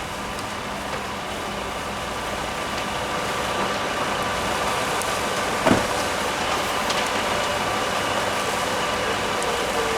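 Fire engine's motor and pump running steadily with a faint whine, getting a little louder partway through, and one short knock about six seconds in.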